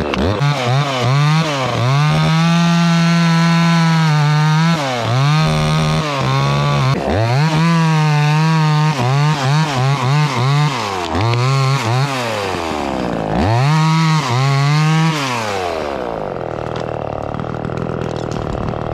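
Two-stroke chainsaw at full throttle cleaning up the face cut in a white pine trunk, its revs dipping and climbing back several times. About 16 seconds in it drops to idle.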